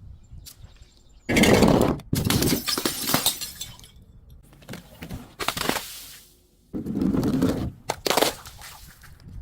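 Glass bottles being crushed, breaking and crunching in four loud bursts of a second or so each, with smaller crackles of glass between them.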